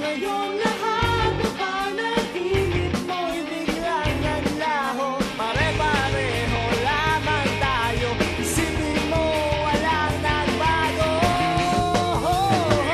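Rock song: a lead vocal sung over electric guitar, bass and drums.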